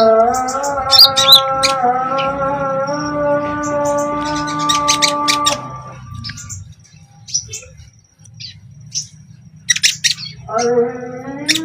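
Konin songbird chirping in short, sharp, rapid high notes and brief trills, the quick 'shooting' calls of a bird in full song. Behind it are held musical tones that stop about halfway through and come back near the end.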